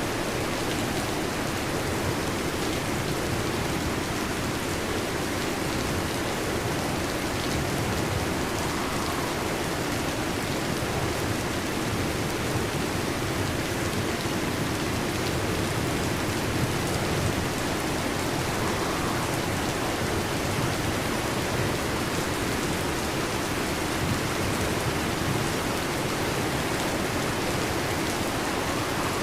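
Steady heavy rain falling without a break, with no distinct thunderclap.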